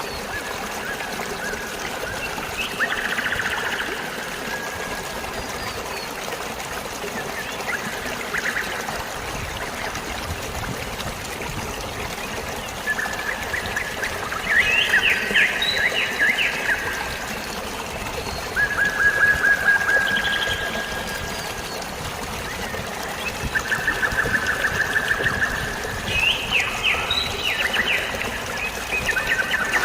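Steady flow of running water, with songbirds singing short, rapid trills and chirps over it every few seconds, loudest in the second half.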